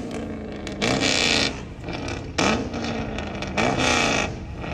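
Car engine revved in repeated quick blips, about four of them a little over a second apart. Each is a fast rise in pitch followed by a loud, harsh rush of noise.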